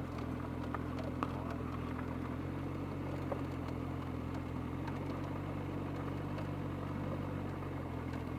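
Motorcycle engine idling steadily at one even pitch, with a couple of faint ticks.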